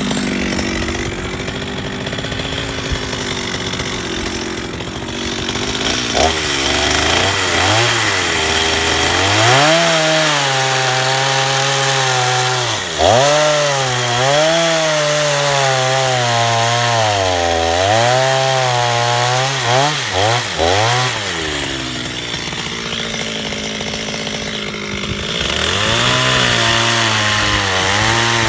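Chainsaw cutting into a log. The engine runs steadily at first. From about six seconds in, its pitch repeatedly dips and recovers as the chain bogs down under load, then it steadies again near the end.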